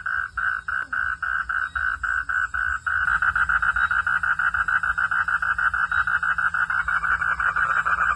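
Frogs calling in a rapid pulsed chorus, about four pulses a second at first; about three seconds in, more callers join and the pulsing becomes faster and denser.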